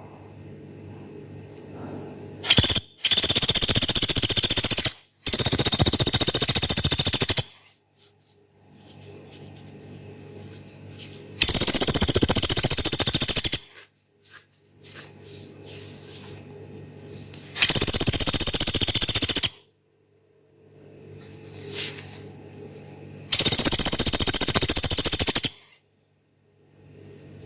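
Pelatuk beras, a small woodpecker, giving long, harsh, rapid rattling calls: about six high-pitched bursts of roughly two seconds each, the first two close together, with a faint low hum between them.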